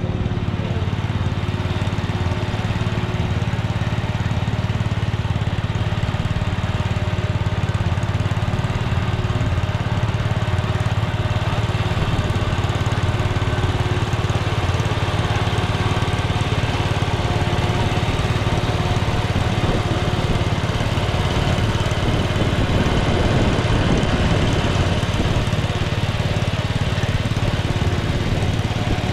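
Small tractor engines running steadily at idle, an even low hum without revving.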